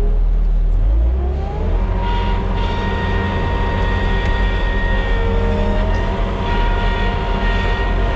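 Vehicle engine running, then accelerating about a second in: its pitch rises and settles into a steady drone under a constant low rumble.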